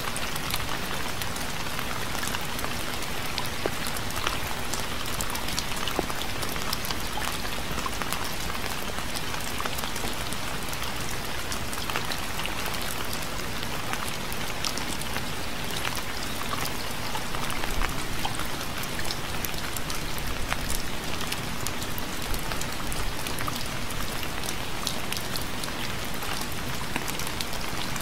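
Steady rain falling on a surface, with many separate drops ticking through a continuous hiss.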